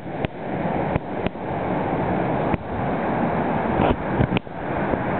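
Wind rushing over the microphone with moving water underneath, a steady noisy rush broken by a few sharp clicks.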